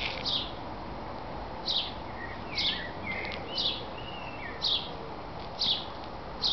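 A great tit calling a short, high, falling note about once a second, with softer twittering notes in between.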